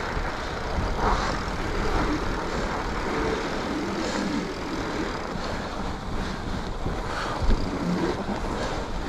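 Mountain bike rolling over a groomed snow trail: steady tyre and riding noise, with a single sharp thump about seven and a half seconds in.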